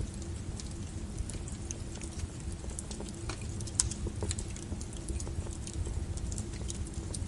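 Wood fire crackling: irregular snaps and pops over a steady low rumble, with one sharper pop about halfway through.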